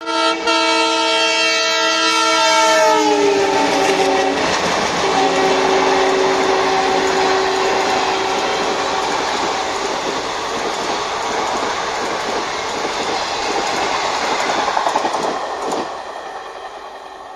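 Express train running through at speed behind a diesel locomotive sounding its horn: a long blast whose pitch slides down about three seconds in, then a lower horn note held until about eight seconds. After that the steady rush and clickety-clack of the coaches over the rail joints, fading near the end.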